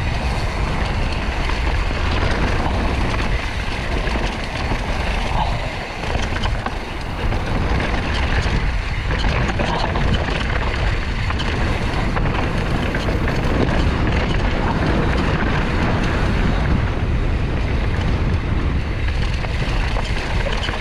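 Wind rushing over the microphone, mixed with the steady rolling noise of a mountain bike riding a rocky, technical trail at speed.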